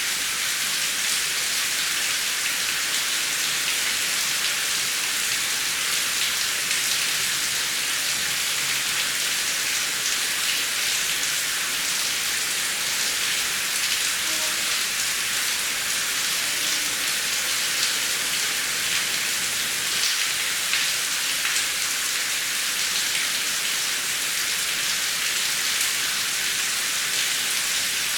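Heavy rain falling steadily, an even hiss of many drops pattering on a surface with no thunder.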